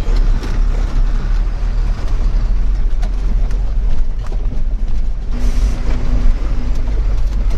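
Truck engine running under way with road noise: a steady low rumble.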